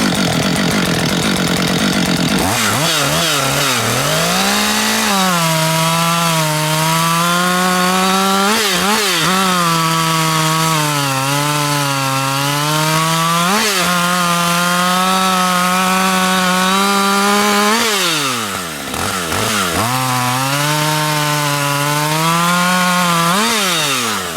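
Two-stroke chainsaw at full throttle cutting through a log under heavy feed pressure, its engine pitch sagging as it is pushed and recovering several times. About three quarters of the way in the revs fall away almost to a stall, then climb back for another push. The chain is worn down to almost no teeth.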